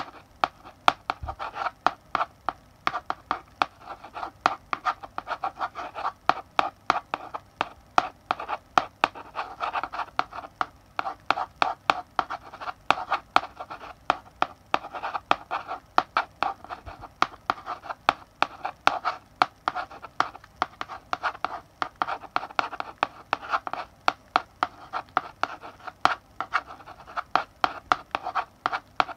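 Chalk writing on a blackboard: a steady scratchy rasp broken by many quick, sharp taps as the chalk strikes and lifts off the board between strokes.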